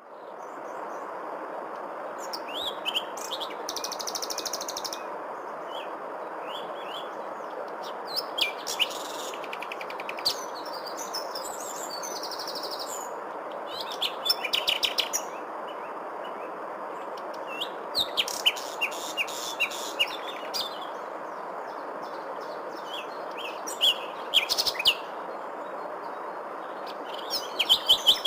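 Wild birds chirping and trilling in short bouts every few seconds, over a steady background hiss.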